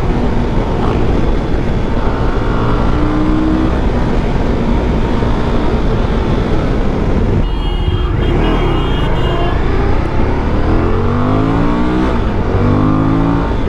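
Suzuki V-Strom 1050DE's V-twin engine running at highway speed under heavy wind rush. In the second half, as the bike slows, the engine note falls and rises in short steps, like downshifts.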